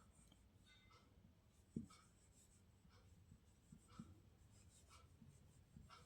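Near silence with faint pen-on-surface writing sounds: a few light scratches and small taps, the clearest about two seconds in.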